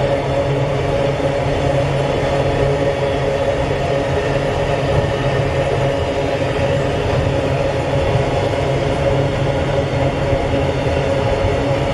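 Freight train of GDE ore gondola wagons rolling steadily across a concrete railway bridge: a continuous rumble and clatter of wheels on rails with a steady hum.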